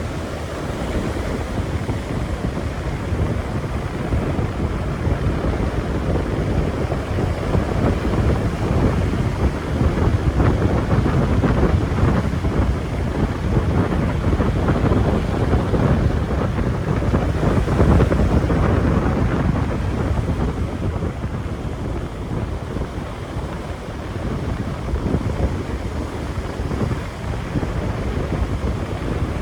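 Storm wind buffeting the microphone, with the rush of ocean surf underneath. The gusts are strongest around the middle and ease somewhat later on.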